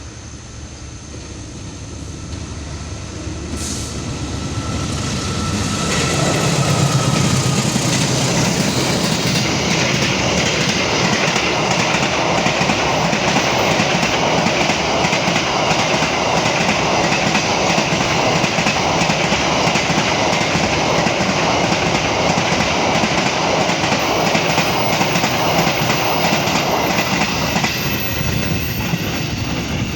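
Freight train approaching, growing louder over the first several seconds, then a long, steady pass of wagons with rail noise. The noise begins to ease near the end.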